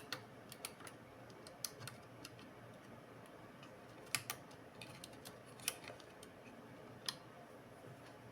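Light, irregular clicks and taps, over a dozen in all and unevenly spaced, as small laptop parts and tools are handled; the sharpest come about four, six and seven seconds in.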